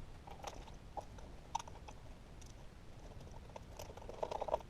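Faint, scattered small clicks and taps of metal parts and a throttle cable being handled and fitted to a small engine's linkage.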